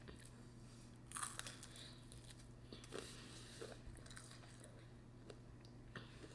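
Faint chewing and smacking mouth sounds of someone eating ramen noodles, with a louder wet smack about a second in, over a steady low hum.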